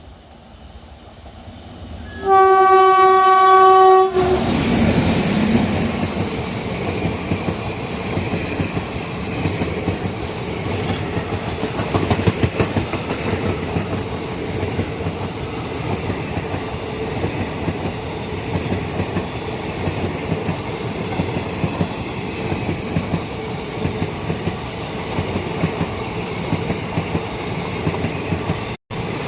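Train horn sounding one long, steady blast of about two seconds. The train then passes close by at speed, its wheels clattering steadily over the rail joints.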